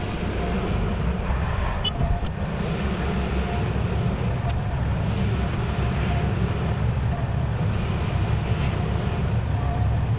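Volvo A25G articulated haul truck's diesel engine running under way, a steady low drone.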